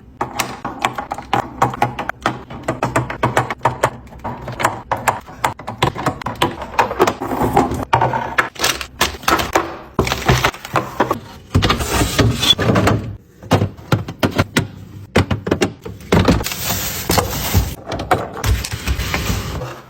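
Containers, lids and packaging being handled and set down while restocking a fridge: a dense run of irregular clicks, knocks and clatters. It is broken by two longer stretches of steady rushing noise, one about halfway through and one near the end.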